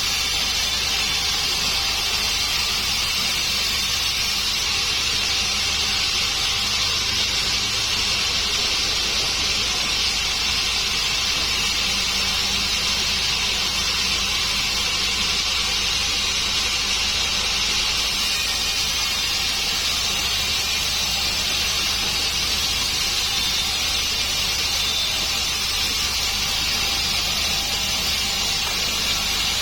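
Sawmill band saw running steadily: a constant high hiss over a low motor hum, with no change in pace.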